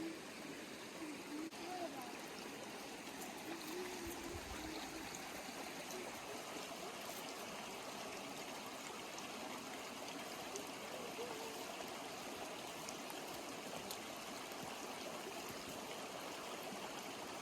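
Stream water running steadily over rocks, with faint voices in the first few seconds.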